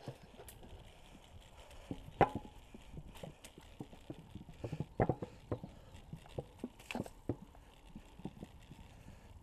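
Irregular knocks and rattles of a bicycle jolting over a rough, bumpy sidewalk, with a few sharper clacks standing out, the loudest about two seconds in.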